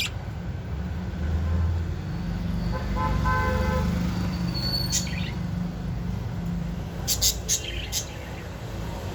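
Budgerigars giving a few short, sharp chirps, about five seconds in and in a quick cluster near the end, over a steady low rumble of traffic. A short horn-like tone sounds about three seconds in.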